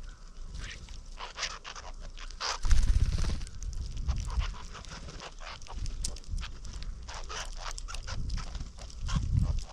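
Gusts of wind buffeting the microphone, loudest about three seconds in and again near the end, over a run of short, sharp chirps and clicks from small backyard birds.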